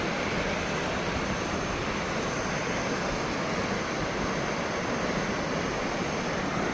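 Thomson's Falls, a 74 m waterfall, roaring steadily: a constant, even rush of falling water.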